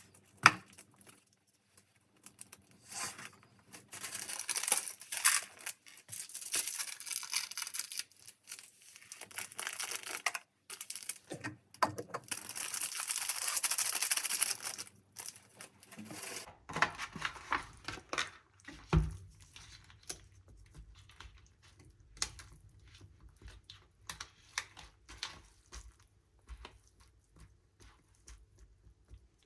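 Plastic instant-noodle packaging being crinkled and torn open in irregular bursts, followed by scattered small clicks and light knocks, one a little louder about two-thirds of the way through.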